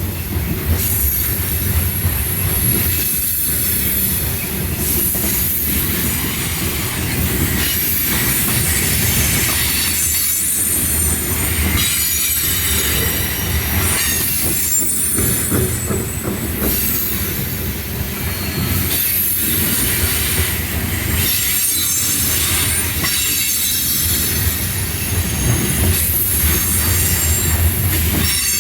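CSX freight train rolling past: a steady rumble of the cars with a high-pitched squeal from the wheels, dipping briefly every couple of seconds.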